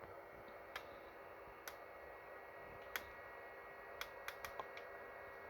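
Faint steady hum with a few sharp, irregular clicks, several of them close together about four seconds in.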